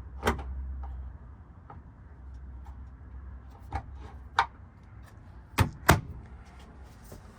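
Camper cabinetry being handled: a few sharp knocks and clunks of cabinet doors and fittings, the two loudest close together about six seconds in.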